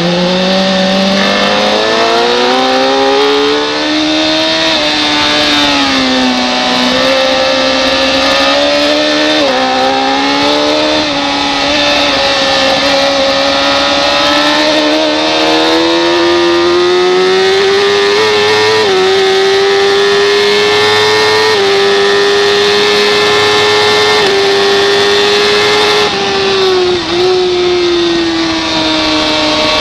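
Racing motorcycle engine at high revs, its pitch climbing slowly with several brief dips as the throttle and gears change, over a steady rush of wind noise.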